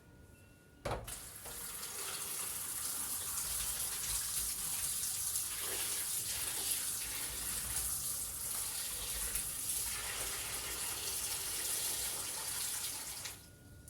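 Water running steadily from a kitchen tap, turned on about a second in and off shortly before the end.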